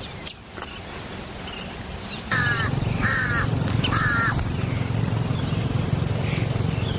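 A bird gives three harsh, crow-like calls, each about half a second long, over a steady low rumble that starts suddenly about two seconds in.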